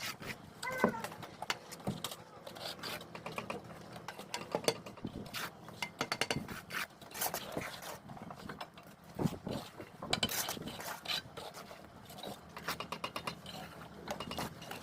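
Bricklaying work: irregular taps, clicks and scraping of a trowel against mortar and bricks.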